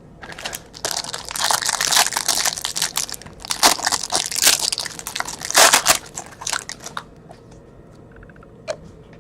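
Trading-card pack wrappers and packaging crinkling and crumpling as they are handled and torn open, for about seven seconds before dying down, with a single sharp click near the end.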